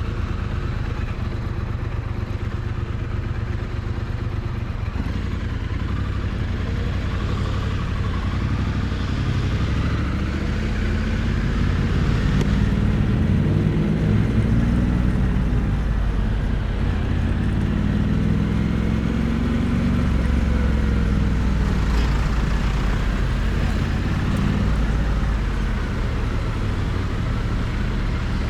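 Triumph Bonneville T100's parallel-twin engine and exhaust running, picked up close to the exhaust pipe. Its pitch rises and falls a few times as the revs build and drop.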